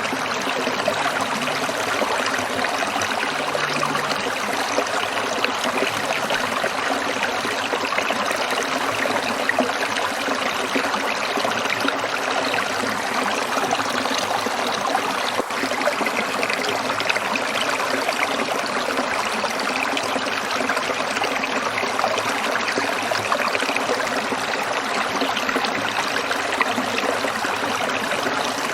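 Shallow stream water trickling and splashing over stones, a steady, even rushing.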